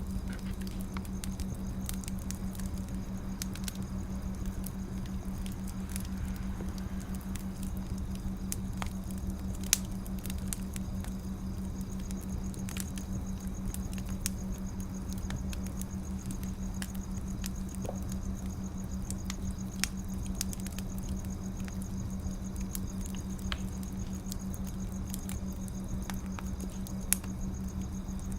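Wood fire crackling: scattered small ticks and pops, with a few sharper snaps, over a steady low hum.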